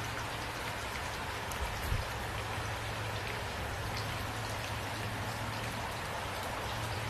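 Steady rain falling, an even hiss with scattered drops ticking, over a steady low hum, with one short low thump about two seconds in.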